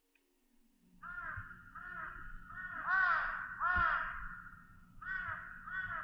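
A bird calling repeatedly in harsh caws: five short calls in quick succession from about a second in, a pause, then two more near the end, with a low rumble underneath.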